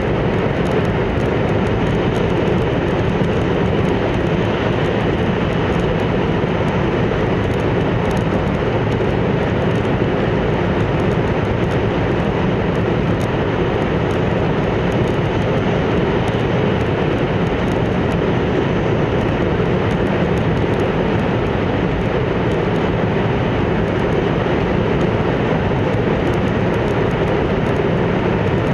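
Hokkaido Shinkansen Hayabusa train running at speed, heard from inside the passenger car: a steady, unchanging rumble and rush of wheels on rail and air.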